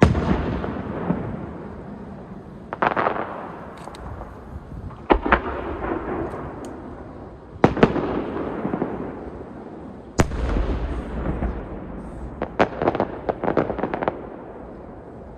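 Aerial firework shells bursting: a loud boom every two to three seconds, each followed by a long rolling echo, then a quick run of smaller bangs near the end.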